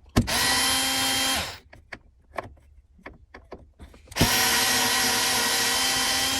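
Power drill-driver running in two steady bursts, a short one and then a longer one, backing out a Phillips-head screw; the first winds down in pitch as it stops, and small handling clicks fall in between.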